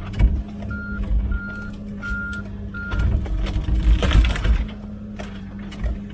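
Komatsu PC16 mini excavator's diesel engine running steadily while its travel alarm beeps four times, about two beeps a second, in the first half. Near the middle a louder rough, noisy stretch rises over the engine.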